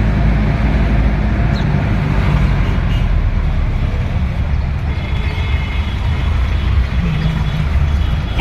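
Steady low rumble of motor vehicle engines and road noise in moving traffic.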